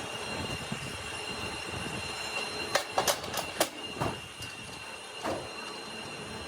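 Factory machinery running with a thin steady whine, and a quick run of sharp metal-on-metal clanks about three seconds in, then one more clank later.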